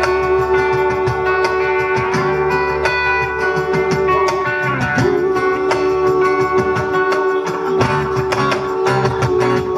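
Live rock band playing loudly through a PA: long held notes, each sliding up at its start, over guitar, bass and a steady beat.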